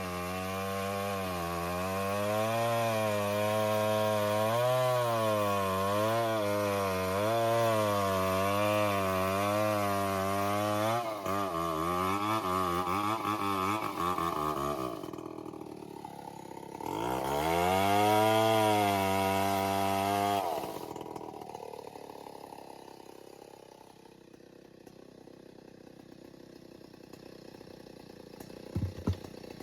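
An engine running with its speed wavering up and down. It drops away about halfway through, revs up again, then dies down. A couple of short knocks come near the end.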